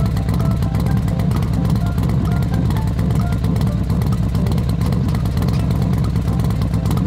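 Motorcycle engine running steadily with a low, rapid rumble.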